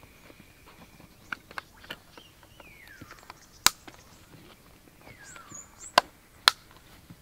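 Sharp knocks or chops: three light ones between one and two seconds in, then three loud ones, one near the middle and two half a second apart near the end. Two short falling whistles sound between them.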